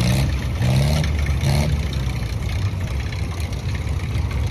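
Allis-Chalmers WD-45 tractor engine running hard under load as it pulls the weight sled. Its pitch rises a few times in the first second and a half, then it runs steady.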